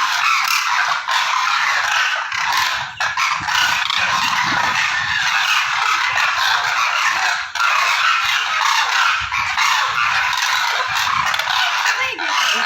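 A large flock of cranes calling together: a loud, unbroken chorus of many overlapping calls.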